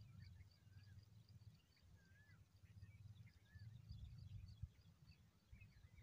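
Faint small-bird calls: a quick run of short high chirps with a few curving whistled notes, over a low steady rumble.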